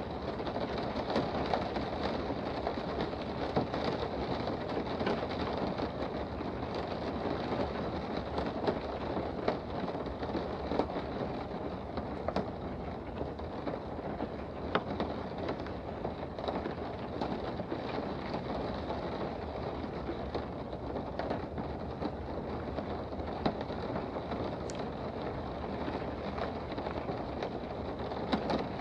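Steady rain heard from indoors: an even hiss with scattered sharp drop ticks throughout.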